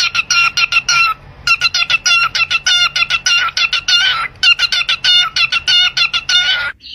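A pet bird giving rapid runs of short, shrill, clucking calls, several a second, in three runs with brief pauses between them.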